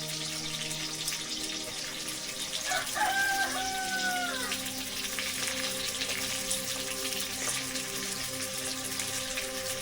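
A rooster crows once, a held call lasting a little under two seconds that falls slightly at the end. It is heard over a steady hiss.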